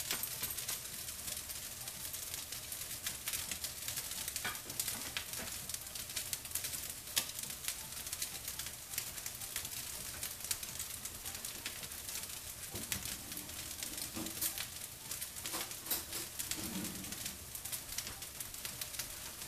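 Fried rice sizzling with many small crackles in a nonstick frying pan over a high gas flame, stirred and turned with spatulas at the start.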